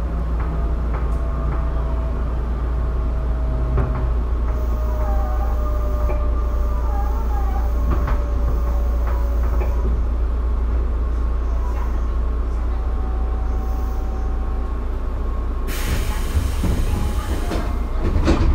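Tobu 9050-series commuter train standing at a station, its onboard equipment giving a steady low hum. About sixteen seconds in, a loud rushing noise starts, consistent with the faster train it is waiting for going by on the next track.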